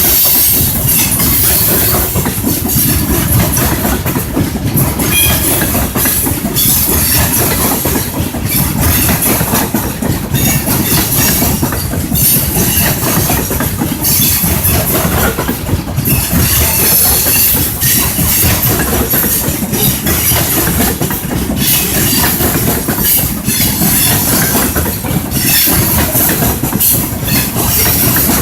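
A train rolling steadily past, its wheels clattering on the rails without a break.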